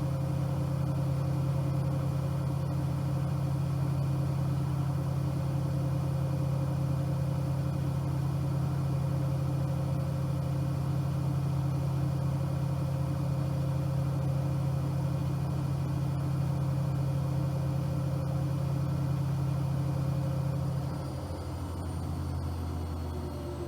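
Bosch AQUASENSOR WFP3231 washing machine running with a steady low hum. About 21 seconds in the hum drops lower in pitch and gets quieter.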